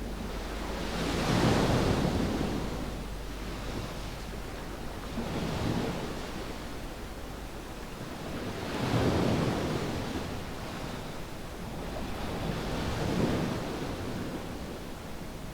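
Ocean waves breaking and washing up on a sandy beach, swelling four times about every three to four seconds over a steady surf hiss.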